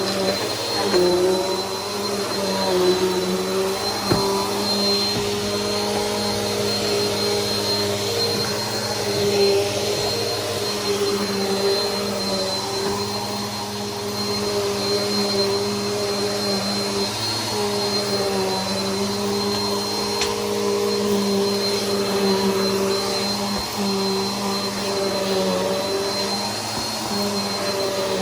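Bissell PowerForce Helix upright vacuum cleaner running steadily. Its motor hum carries a constant high whine, and the pitch wavers slightly now and then.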